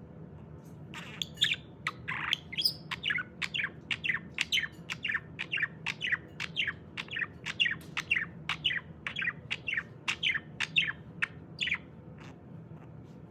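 Budgerigar chirping in a quick, steady run of short falling chirps, about three a second, that starts about a second in and stops near the end.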